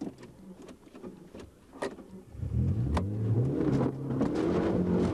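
Mitsubishi Galant rally car's engine heard from inside the cabin: quiet and off the throttle for about two seconds, with a couple of sharp clicks, then accelerating hard from about halfway, its pitch climbing and stepping through a gear change.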